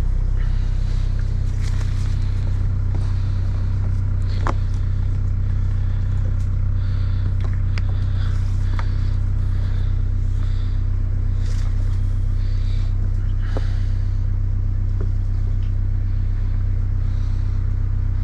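Boat engine running steadily with an even low hum, with a few faint clicks over it.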